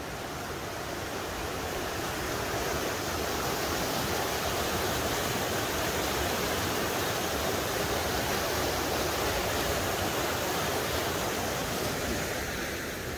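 A river rushing past: a steady rush of water that swells over the first few seconds and eases off near the end.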